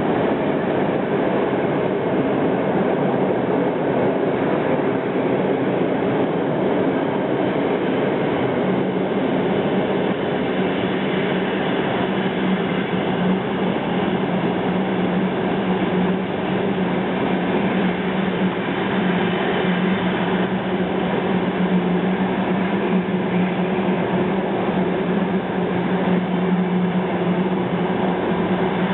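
Passenger coaches of an arriving long-distance train rolling past along an enclosed underground station platform. The rumble stays steady, and a steady low hum grows stronger about eight seconds in.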